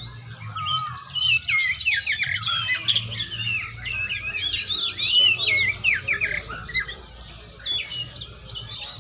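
Oriental magpie-robin (kacer) singing a fast, varied song of rapid chirps and sweeping whistled notes, almost without a break.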